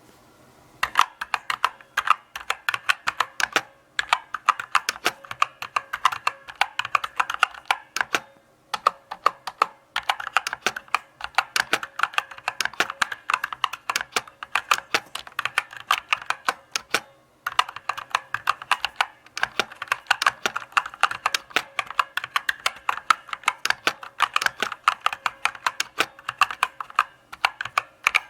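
Keystrokes on a mechanical keyboard: a steady run of sharp key clicks that starts about a second in, with a short pause near the middle and a brief break about two-thirds of the way through.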